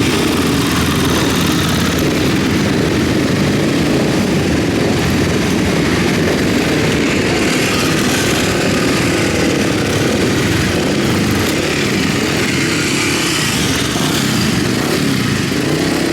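Matchless G50 single-cylinder racing motorcycle engine running hard at high revs, steady throughout, with a hiss of rushing air over it.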